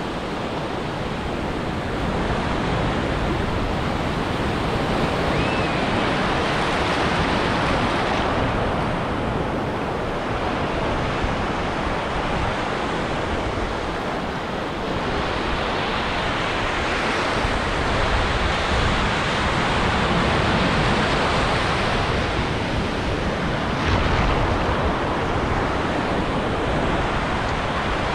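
Ocean surf breaking and washing up a beach: a steady rushing hiss that swells and eases slowly as waves come in.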